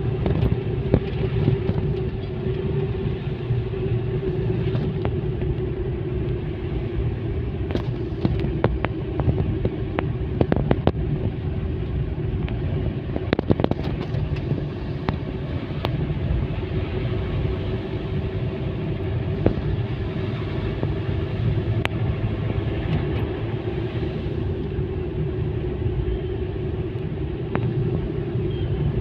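Car driving along a road: a steady engine and road-noise rumble with a constant hum, broken by scattered short knocks and clicks.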